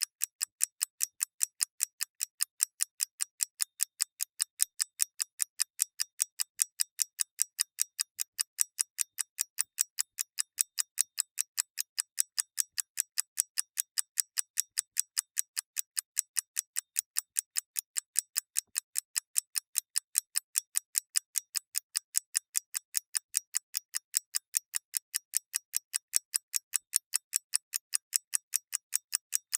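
A clock ticking steadily: rapid, perfectly even, sharp high ticks, several a second, with no low end.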